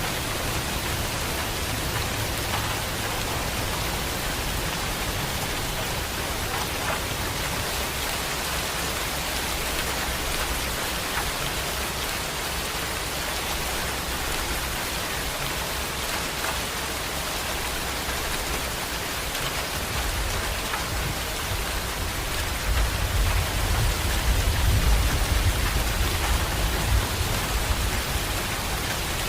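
Heavy rain falling steadily in a dense, even hiss. About two-thirds of the way through, a low rumble of thunder swells up under the rain and fades again.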